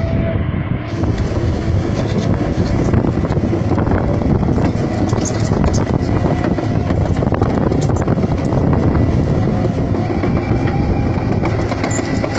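Large vehicle running with a loud, steady rumble and dense rattling and clanking.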